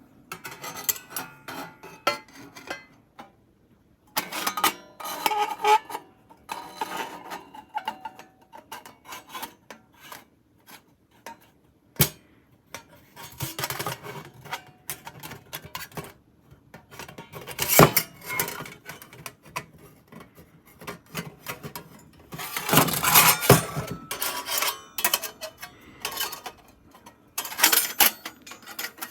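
Objects being handled by hand: on-and-off clinks, rubbing and scraping, with one sharp click about twelve seconds in and a longer run of scraping near the end.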